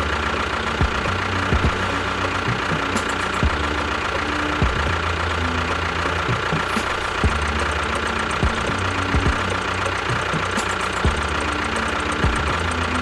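A small engine running steadily, with a knocking sound and scattered sharp clicks.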